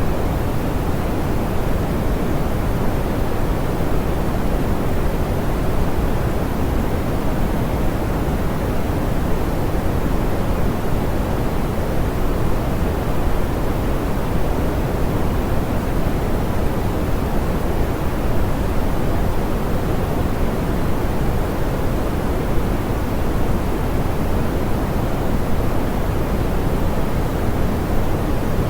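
Steady, soft pink noise: an even, unchanging hiss weighted toward the low end, with the highs rolled off.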